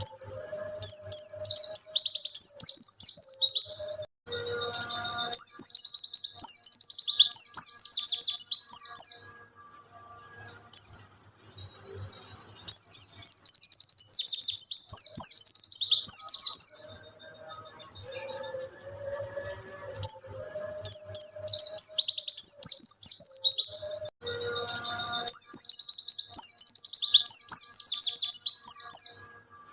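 A white-eye (pleci) singing in long runs of rapid, high twittering, each a few seconds long, broken by short pauses.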